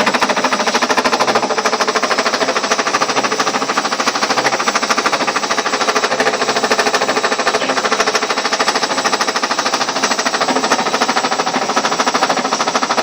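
Ariston washing machine spinning at speed with a loud, rapid, even knocking from inside the drum. The machine stands still and nothing outside touches it, so the knock is an internal fault, one that should not be there.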